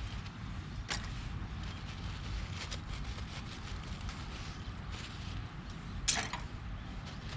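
Cooking fire crackling with a few sharp pops over a steady low rumble, the loudest pop about six seconds in.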